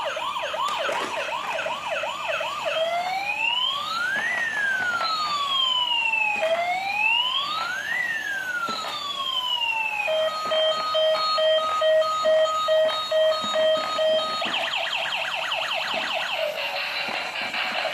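Toy ambulance's electronic siren cycling through its patterns. It opens with a fast yelp, then plays a slow wail rising and falling about every four seconds. About ten seconds in it switches to a steady beeping tone, and near the end it goes back to a fast yelp.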